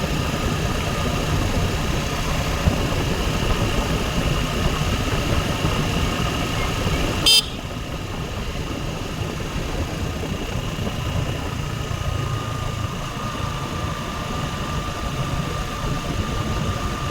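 Motorcycle running at speed, a steady engine drone mixed with road and wind noise. A brief loud blip cuts in about seven seconds in, after which the sound is slightly quieter.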